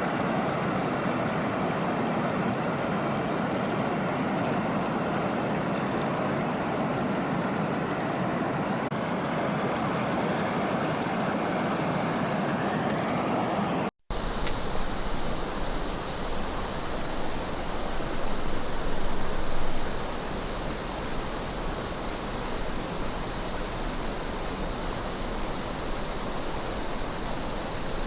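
Steady rush of flowing river water. About halfway it drops out for a split second and comes back with a slightly different, hissier tone, as if from another spot on the river.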